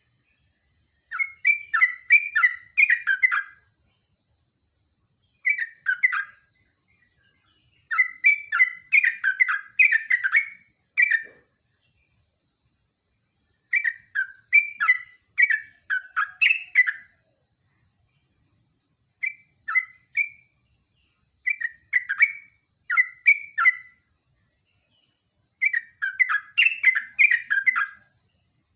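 Yellow-vented bulbul (trucuk) singing its rapid, bubbly chattering song in about seven phrases, each a quick run of short warbled notes, with silent pauses of one to two seconds between phrases.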